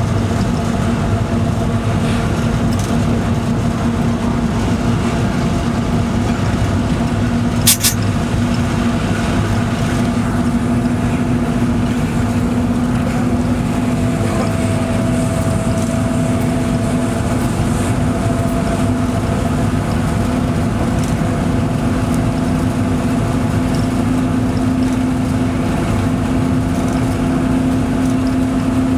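Locomotive running steadily, heard inside its cab: a continuous drone with a held hum. There is a single sharp click about eight seconds in.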